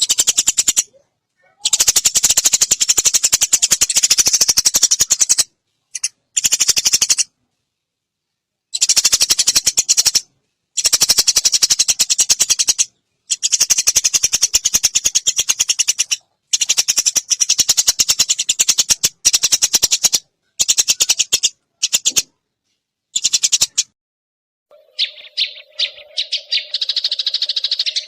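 Recorded songbird song: very fast, high, rattling trills in repeated bursts of one to four seconds with short silences between them. Near the end a different steady call with a low hum-like tone under a high buzz takes over.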